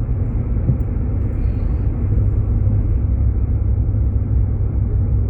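Jeep Grand Cherokee driving on a snow-covered road: a steady low rumble of tyre and engine noise.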